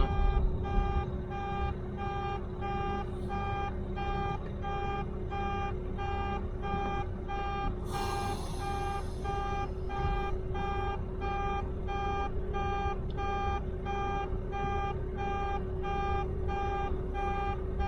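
Steady electronic beeping, about two beeps a second, over the low running of a truck engine, with a brief hiss about eight seconds in.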